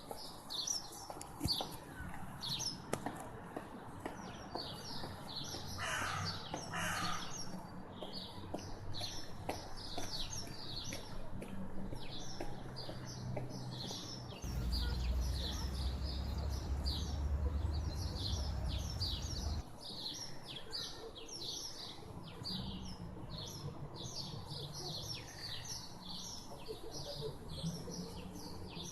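Small birds singing, quick short chirps repeated several times a second throughout. A low rumble comes in near the middle for about five seconds.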